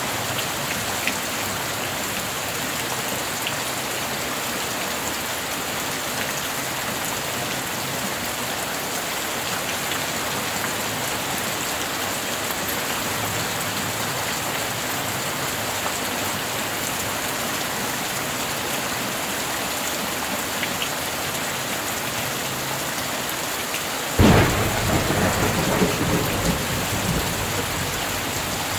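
Steady rain falling. Near the end a sudden clap of thunder breaks in, then rumbles on for a few seconds.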